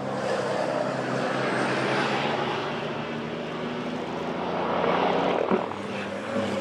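Diesel engine of a racing truck running hard at speed: a steady drone with road and wind noise that swells about five seconds in. A single sharp knock comes about five and a half seconds in.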